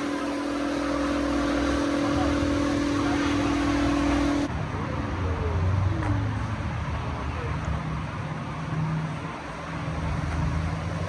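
2011 Camaro SS 6.2-litre V8 running through a straight-piped exhaust: cats deleted, H-pipe, Borla ATAK mufflers. A steady whine sits over it until an abrupt cut about four and a half seconds in. After the cut, a falling pitch and a low, uneven engine drone follow.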